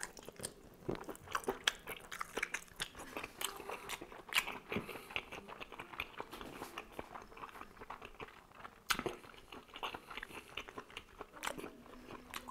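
A person chewing a mouthful of squid and vegetable tagine close to the microphone: irregular mouth clicks and smacks, with one sharper click about nine seconds in.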